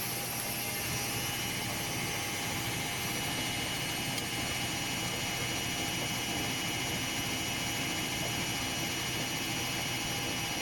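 Washing machine running: a steady mechanical whir with several faint high steady tones, unchanging throughout.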